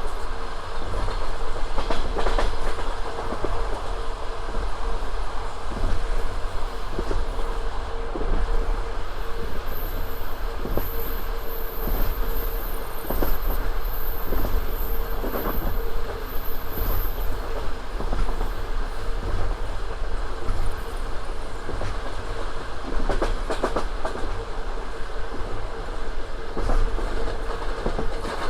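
Passenger train running along the line: the carriage rumbles steadily, with irregular clickety-clack knocks of the wheels.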